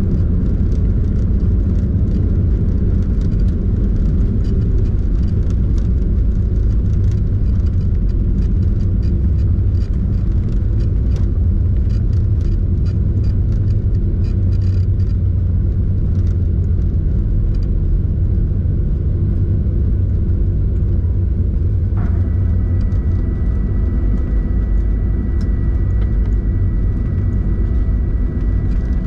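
Cabin noise of a Boeing 737-800 on the ground after landing: a loud, steady deep rumble with light rattling clicks through the first half. About 22 s in, a set of steady whining tones comes in suddenly and holds.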